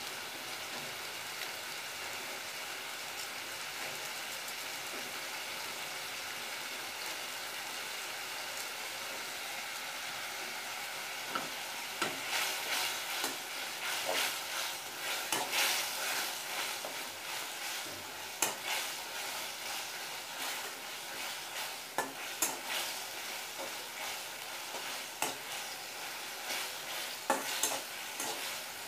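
Maggi noodle mixture frying in sunflower oil in a metal kadai: a steady sizzle, joined from about twelve seconds in by irregular scraping and stirring strokes against the pan.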